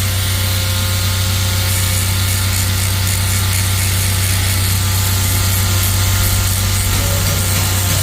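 A power tool running steadily, with a constant low hum under a rough, hissing grind that does not let up.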